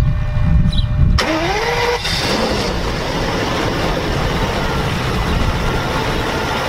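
Car engine catching about a second in, a rising whine as it revs up, then running steadily. It is likely the Mercedes W126 300SD's five-cylinder turbo diesel.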